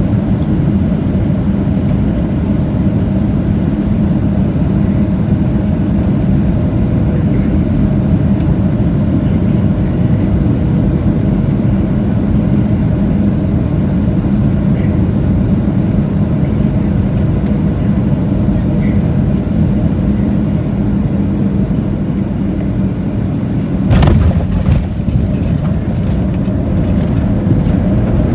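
Steady cabin noise of a Boeing 737-700's CFM56 engines and airflow on final approach, then near the end a sharp thump as the wheels hit the runway in a hard landing, followed by a few seconds of rumbling and rattling on the runway.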